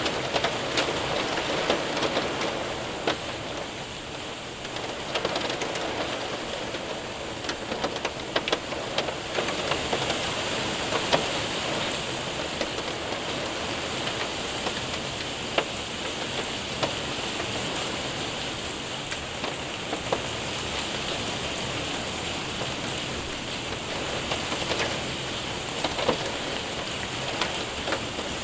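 Rain and hail hitting a window and roof: a steady wash of rain with scattered sharp ticks of individual stones striking at irregular moments.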